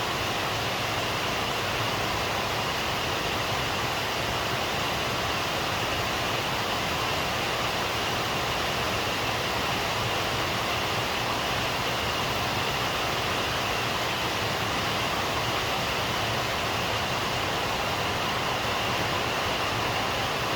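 Steady rain falling, an even hiss without pauses or thunder.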